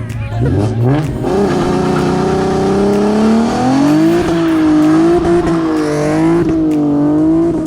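GM LS V8 car engine revving up hard over about three seconds, then held high with the revs bobbing up and down, over a steady hiss of spinning tyres: a burnout.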